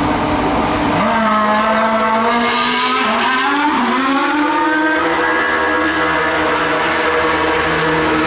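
Formula One car's 2.4-litre V8 engine at high revs. The engine note climbs after about a second, drops in pitch as a car goes by around three to four seconds in, then holds a steadier note.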